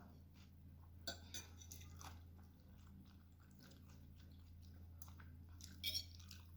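Soft chewing of a mouthful of lagmon noodles, close to the microphone, with small wet clicks of the mouth and a louder bite or slurp near the end.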